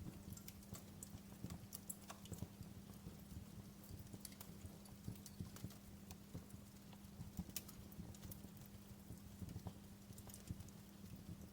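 Wood fire crackling: quiet, irregular snaps and pops over a low steady hum.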